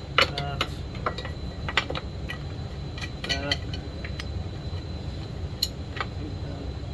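Clicks, clinks and knocks of small chainsaw parts being handled and fitted by hand, over a steady low rumble.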